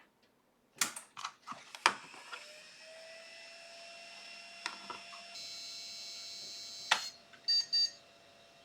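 An old PC switched on: a few clicks, then its fans spin up into a steady hum with a faint rising tone. Near the end come a click and two short high beeps.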